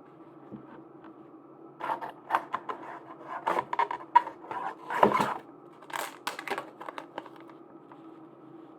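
Hands handling merchandise packaging: a cluster of crinkles, taps and sharp clicks over about five seconds, over a steady low hum.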